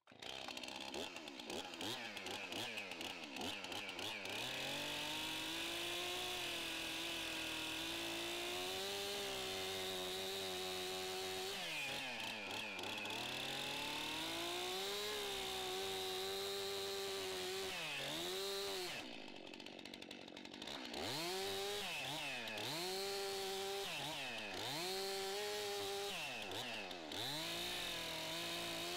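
Chainsaw running at high revs and cutting a log, its speed dropping and picking up again several times, with a brief idle about two-thirds of the way through.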